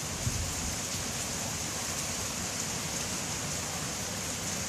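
Steady rain falling, an even hiss with no pauses, and one brief low bump about a quarter second in.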